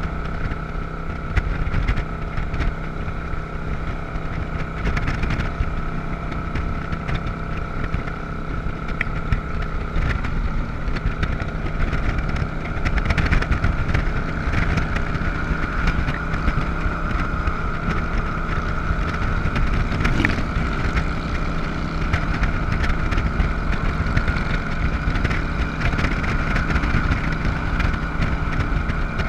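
Motorcycle engine running steadily while riding along at a constant speed, over a dense rushing noise.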